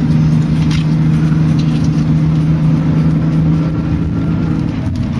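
Smart car's engine running hard at steady high revs, with road and tyre noise, easing off slightly near the end.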